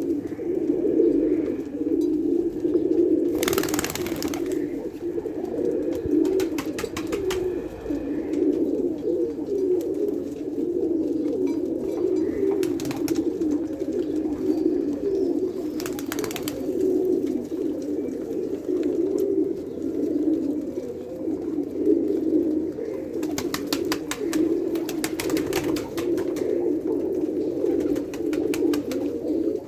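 Many domestic pigeons cooing together in a continuous, overlapping low murmur of coos. A few short rattling bursts break in now and then.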